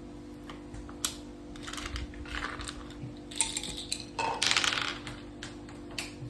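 Dice and game pieces clicking and rattling on a mak saka (Thai backgammon) board: a few sharp clicks, then several short rattling bursts, the loudest a little past four seconds in.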